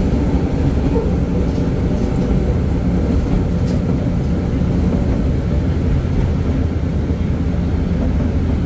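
Train running, a steady low rumble with no distinct regular rail clicks.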